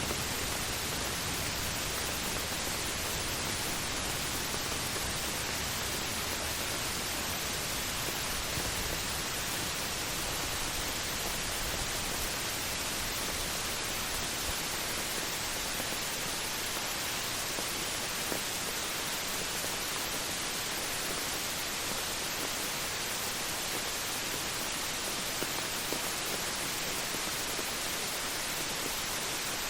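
Heavy rain falling as a steady, even hiss, unbroken throughout.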